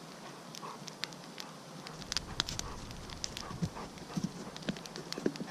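Wood campfire crackling: irregular sharp pops and snaps over a low hiss, with a few duller low knocks in the second half.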